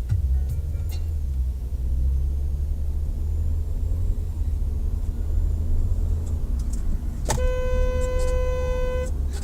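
Steady low rumble of a car driving, with one long car horn blast of nearly two seconds about seven seconds in.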